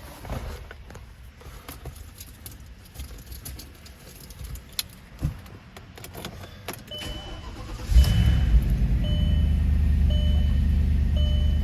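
Keys jangling and small clicks, then a dashboard chime repeating from about seven seconds in. About eight seconds in the Audi RS6's engine cold-starts with a brief loud flare and settles into a steady idle.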